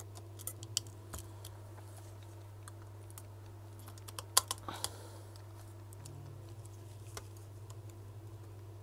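Scattered light clicks and taps of small metal tools and phone parts being handled during iPhone reassembly, with a sharper click about four and a half seconds in, over a steady low electrical hum.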